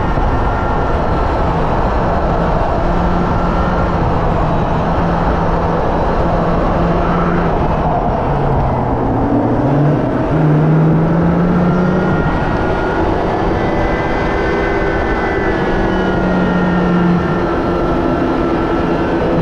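Hyundai Elantra N's turbocharged four-cylinder running hard at speed on track, over heavy wind and road noise. The engine note dips about eight seconds in and jumps back up about two seconds later.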